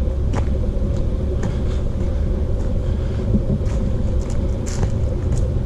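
A steady low rumble, with faint light taps now and then.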